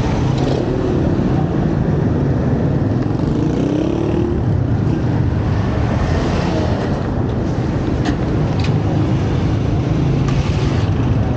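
Motor vehicle traffic running steadily, with a few short clicks.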